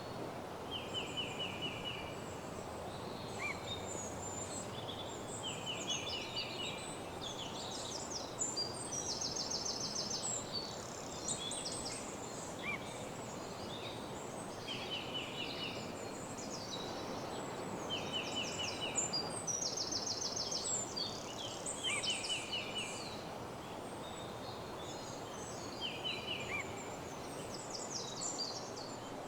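A dawn chorus of several small songbirds singing: repeated short, rapid trills and chirps, some higher and some lower, answering one another over a steady rushing background.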